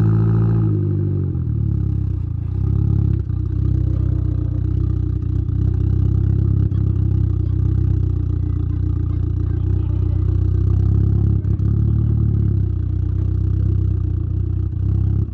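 Exhaust note of a tuned Saab 9-3's turbocharged B204 four-cylinder, picked up right at the tailpipe, running mostly steadily. The revs rise and fall at the start, with smaller swells a few seconds in and again near the end.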